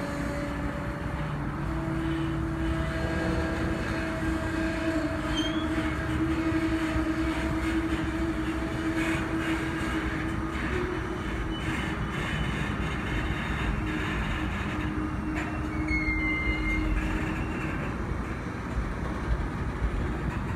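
A train rolling past: a steady rumble of wheels on rail with a low drone, scattered clicks and clanks, and a brief high-pitched wheel squeal about three quarters of the way through.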